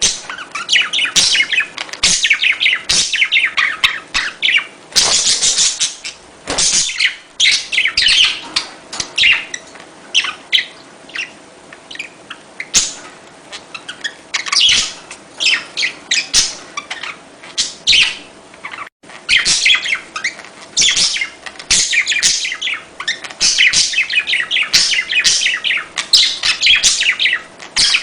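A flock of budgerigars chattering and warbling: dense runs of fast, high chirps broken by short lulls.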